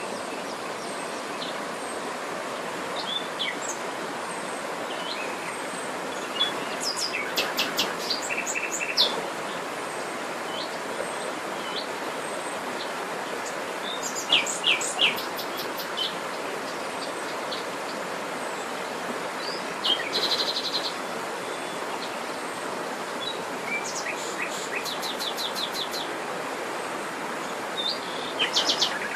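Songbirds chirping and trilling in short, high phrases every few seconds, over a steady background hiss.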